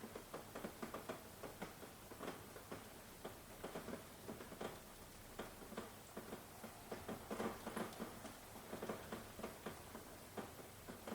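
Rain falling, heavy drops pattering and tapping irregularly several times a second over a faint steady hiss.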